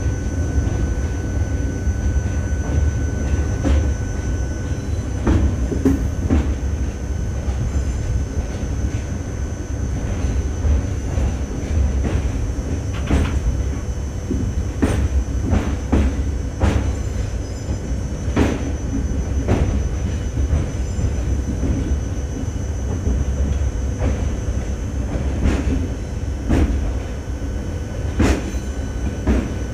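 Train running on rails: a steady low rumble with irregular sharp knocks and clanks from the wheels and carriages.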